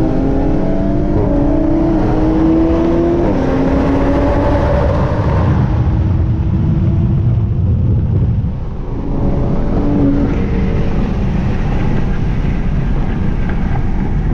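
Twin-turbo 3.0 V6 of an Infiniti Q60 Red Sport at full throttle, heard from inside the cabin. Its pitch climbs, and it drops back at upshifts about three seconds and about eight seconds in.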